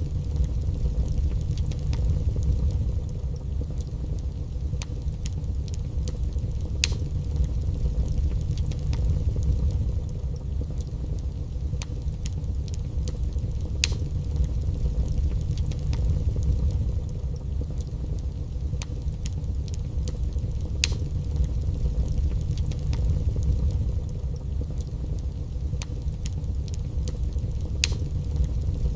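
Wood fire burning in a fireplace: a steady low rumble with sharp crackles and pops now and then.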